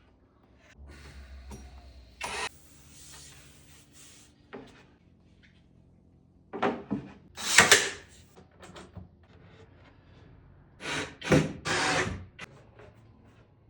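Woodworking power tools run in several short bursts, with a few sharp knocks, between quieter stretches of shop noise.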